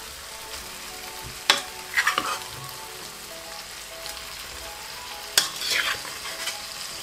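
Turnips and spinach sizzling in the frying masala in a cooking pan while being stirred, with two bursts of a utensil knocking and scraping against the pan, about a second and a half in and again past the middle.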